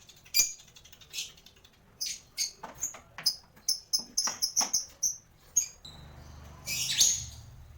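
Parblue lovebird giving a quick run of short, shrill, high chirps, mixed with several sharp clicks. A louder rustling burst comes near the end.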